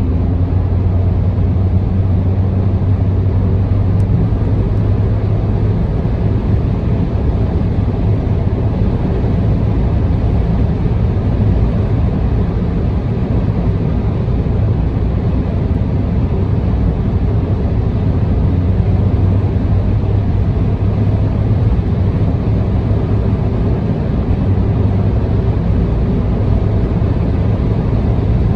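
A car cruising on an expressway, heard from inside the car: steady tyre and engine noise with a constant low hum, unchanging throughout.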